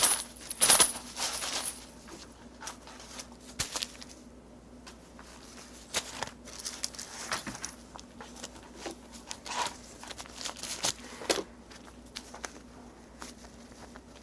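Rice grains and red beans rattling and clicking as they are shaken and scattered for a grain divination. A dense burst of clicks in the first two seconds, then scattered lighter clicks.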